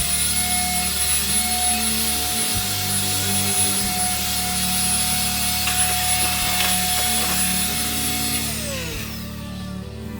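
A small electric motor, as in a power tool or vacuum-type appliance, running at a steady whine with a rushing hiss, then winding down in pitch near the end.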